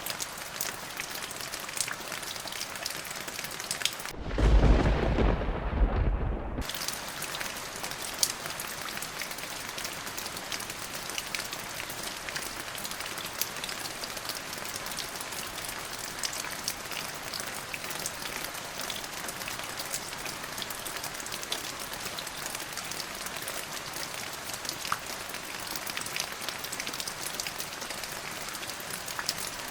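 Steady rain falling, with one loud clap and rumble of thunder about four seconds in that lasts around two seconds and dies away into the rain.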